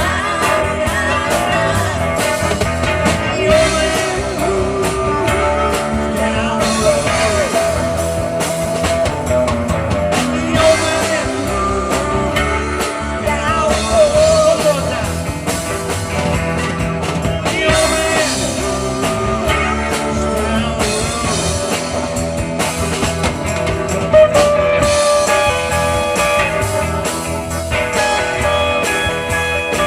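Live rock band playing a blues-rock song with electric guitars, bass guitar, drums and keyboards.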